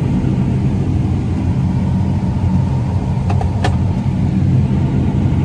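Steady low rumble of a motor vehicle's engine and road noise, with two faint clicks a little past the middle.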